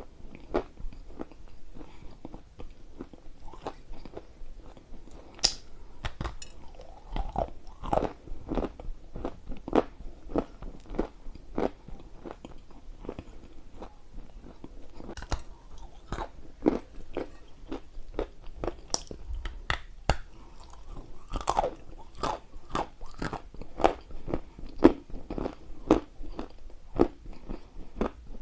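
Close-up chewing and crunching of edible Ural clay: dense, irregular sharp crunches, several a second, as chunks of dry clay are bitten and ground between the teeth.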